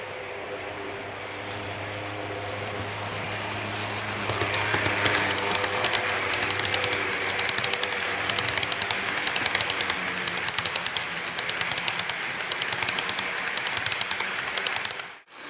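HO-scale model train, an ED72 electric locomotive hauling 24-series sleeper coaches, running on the layout track: a steady motor hum that grows louder, then rapid clicking of the wheels over the rail joints from about four seconds in as it passes close. The sound cuts off abruptly just before the end.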